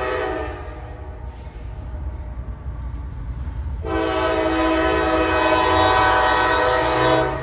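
Locomotive air horn sounding its chord: a blast cuts off about half a second in, then a long blast starts about four seconds in and lasts about three and a half seconds, over the train's steady low rumble.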